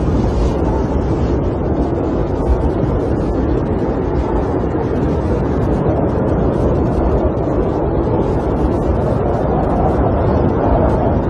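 Snowstorm wind blowing steadily against a camper: a loud, even, deep rushing that does not let up.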